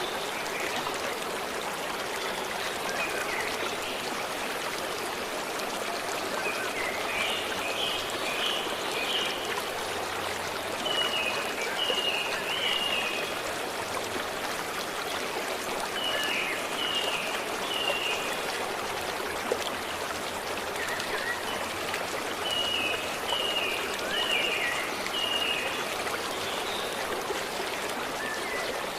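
Stream flowing steadily. A small bird sings over it, repeating a short phrase of three or four quick high notes every few seconds.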